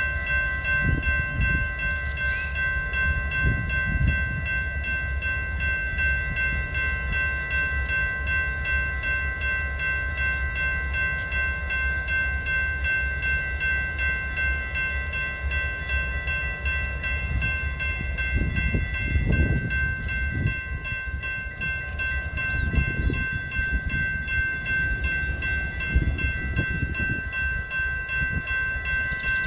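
Train running by with a steady low rumble that swells several times. A set of steady high tones sounds without a break over it.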